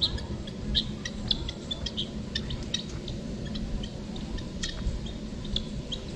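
Small birds chirping in many short, high notes scattered irregularly, over a steady low background rumble.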